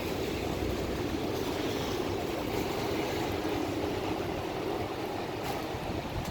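Steady street noise on a rainy day: traffic and wet-road hiss, with no distinct event standing out.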